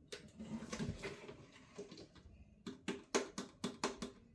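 A quick, irregular run of light clicks and taps of small hard objects being handled, starting a little over halfway in, after a faint rustle.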